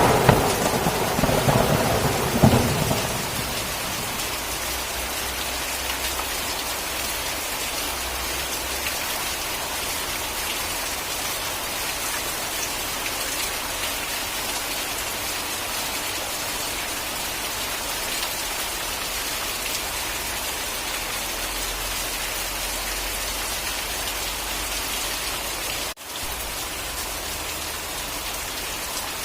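Steady rain falling, with a thunderclap at the start whose rumble fades out over the first few seconds. The rain sound cuts out for an instant near the end.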